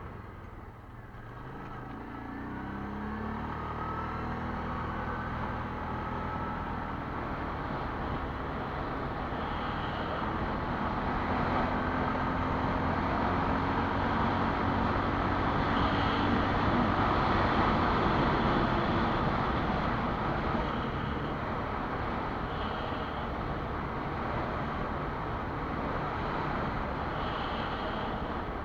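Quad bike (ATV) engine running while riding, its pitch rising as it speeds up a couple of seconds in, under a dense steady rush of travel noise.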